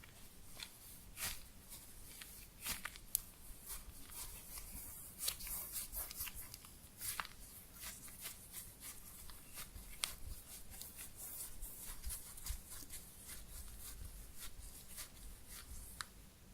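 Close-miked squeezing of a soft foam mochi ice cream squishy toy, repeated squeezes giving irregular soft crackles and rustles.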